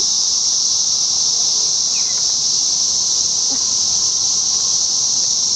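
Chorus of massed 17-year periodical cicadas: a loud, steady, high-pitched drone with no break.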